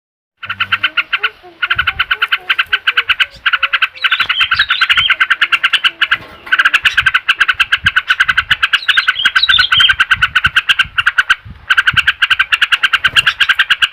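Bird-lure recording played to get a silent yellow-vented bulbul (trucukan) singing again. It is a fast, pulsing chatter in long stretches broken by short pauses, with higher bird calls twice over it.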